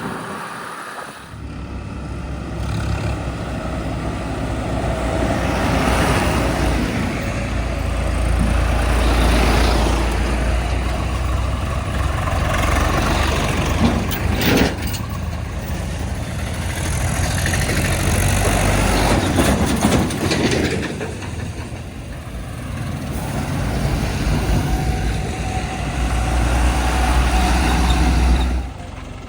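Heavy diesel engines running and revving up and down, as with a backhoe loader and tipper trucks working together. There is a short sharp knock about halfway through.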